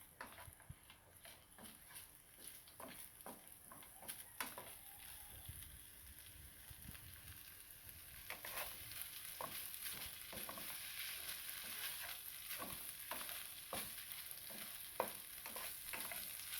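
Salt mackerel frying in hot oil in a pot, sizzling while a utensil scrapes and knocks against the pot as the fish is tossed. The sizzle grows louder about halfway through.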